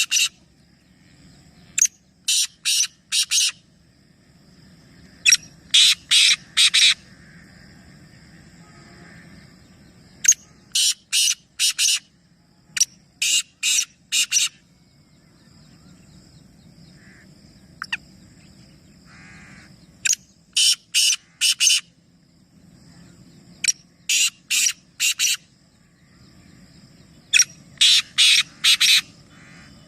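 A bird calls loudly and harshly in runs of three or four short calls, the runs repeating every few seconds, over a faint, steady high-pitched tone.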